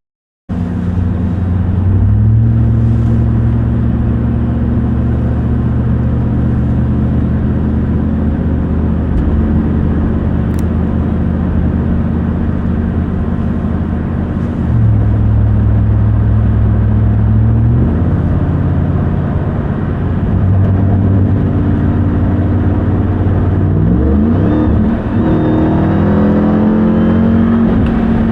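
2021 RAM 1500 TRX's supercharged 6.2-litre Hemi V8 running under way at a steady, low engine note. About 24 seconds in the pitch rises in quick sweeps as the truck accelerates.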